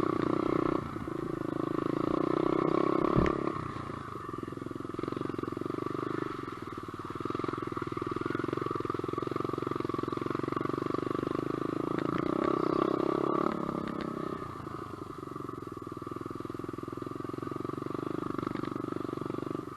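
SSR125 pit bike's single-cylinder four-stroke engine running under way, rising and falling with the throttle: louder for the first few seconds and again about two-thirds of the way through, easing off after each. A short knock sounds about three seconds in.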